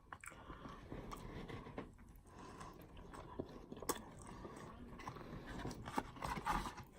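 A person chewing and biting food close to the microphone: soft, wet mouth clicks, with a couple of sharper clicks about four and six seconds in.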